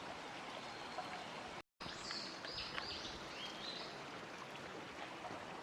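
Shallow stream babbling steadily, a brief complete dropout about two seconds in, then a small bird chirping a few times over the water.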